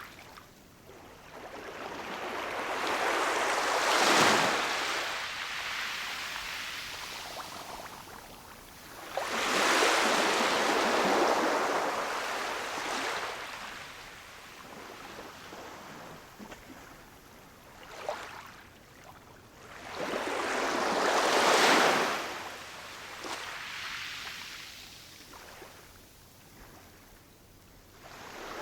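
Ocean waves breaking on a shore: three waves surge in and wash back out, each a rush of surf that builds, peaks and fades.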